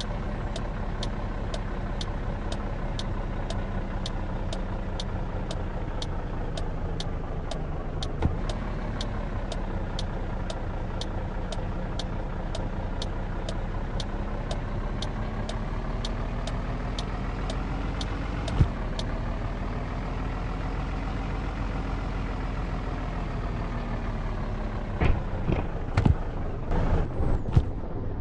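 Truck engine running while driving, its pitch rising and falling gently. A regular light ticking, about one and a half times a second, runs alongside it and stops about two-thirds of the way through. A few knocks come near the end.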